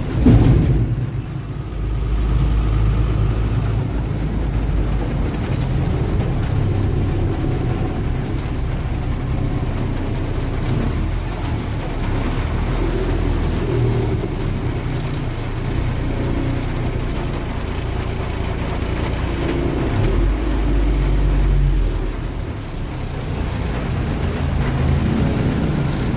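Heavy diesel engine of a working backhoe loader or truck running steadily with a low rumble, swelling a little in level about twenty seconds in.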